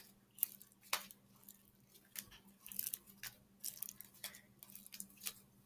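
Hands kneading and working slime, making scattered small sticky clicks, pops and squishes.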